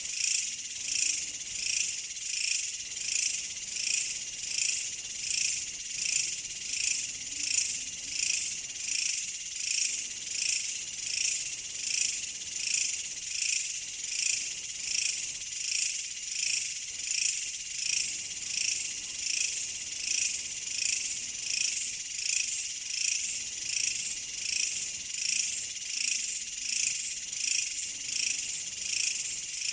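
A dense chorus of crickets chirping in a steady, even rhythm that swells about one and a half times a second, with faint low frog croaks now and then.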